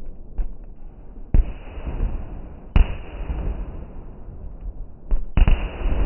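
Fireworks going off: three loud bangs, each trailing off in a rumble, with a few fainter pops in between.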